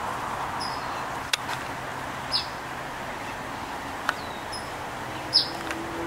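Small songbird giving short, high chirps that slide downward, a few seconds apart, the loudest about two seconds in and again near the end, over a steady outdoor background hiss.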